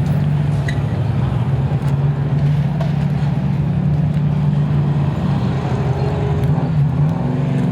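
Short-track sport truck engines running at low speed, a steady engine drone that wavers in pitch near the end.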